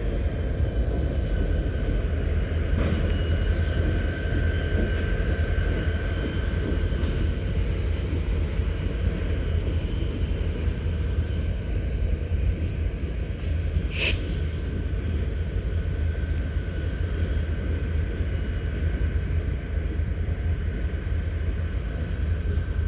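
Railcars rolling through a railyard: a steady low rumble with faint, steady high-pitched wheel squeal above it, and a single sharp click about fourteen seconds in.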